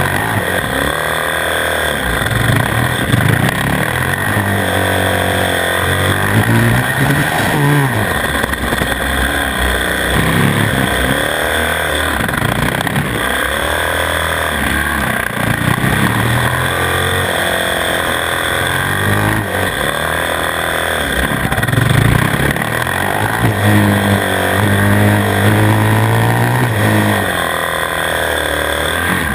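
Single-cylinder 450cc four-stroke supermoto engine heard onboard, its revs rising and falling every two to three seconds as the bike accelerates out of corners and shuts off into the next ones.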